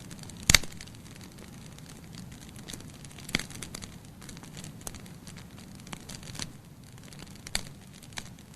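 Wood fire burning in a fireplace: a steady low hiss with irregular sharp crackles and pops from the logs, the loudest pop about half a second in.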